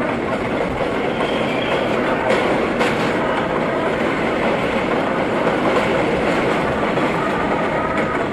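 R32 subway car running at speed, heard from inside the car: a steady rumble of wheels and running gear, with irregular clacks as the wheels cross rail joints.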